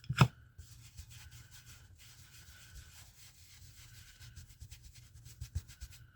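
Ink blending brush scrubbing in quick short strokes, a soft rubbing scratch, with one sharp tap just after the start. A faint steady high whine sits underneath.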